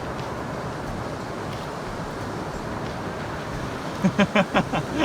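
Steady wash of wind and surf on an open beach, with a voice starting up about a second before the end.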